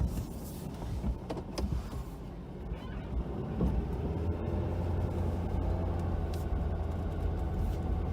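Ford F-250 pickup with a snow plow, engine running steadily as it plows, with a few knocks in the first three seconds and faint groaning from the plow, which gets noisy in the extreme cold.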